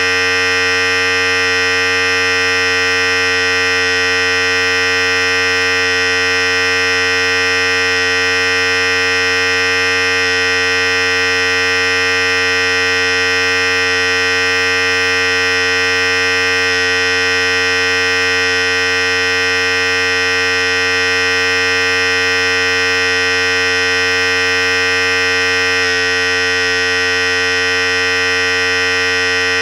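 Philips Series 5000 electric hair clipper running steadily: a continuous, even buzz, with slight shifts in tone a couple of times partway through.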